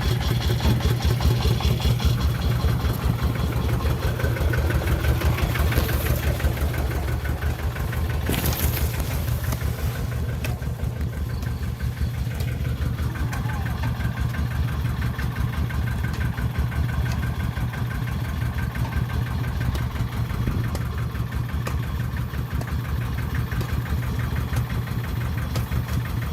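Farm-vehicle diesel engine running steadily with a fast, even low thudding pulse.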